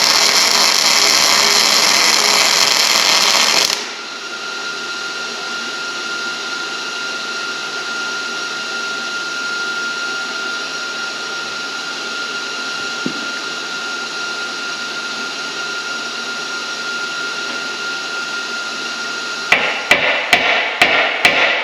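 Welding arc sizzling loudly for the first few seconds as steel parts are tack-welded, cutting off suddenly. A steady quieter background with a faint high whine follows, and near the end about half a dozen quick hammer strikes on steel.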